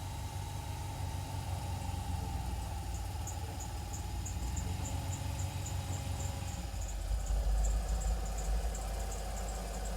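Cab-over ramp truck's engine running just after being started, a steady low idle that turns into a heavier, louder rumble about seven seconds in. A faint, quick high ticking repeats over it.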